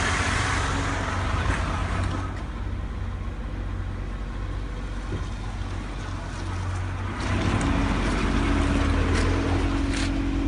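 Toyota 5E-FE 1.5-litre four-cylinder petrol engine running, easing down to a quieter idle after a rev. About seven seconds in it grows louder, with a steady hum added, and a few short clicks come near the end.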